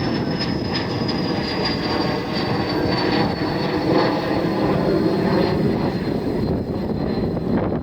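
Learjet business jet's engines roaring on the climb-out after takeoff, with a high whine that slowly falls in pitch as the jet passes.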